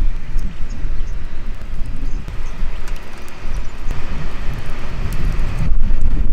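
Wind buffeting the microphone: a loud, uneven low rumble that swells and eases, with a hiss above it.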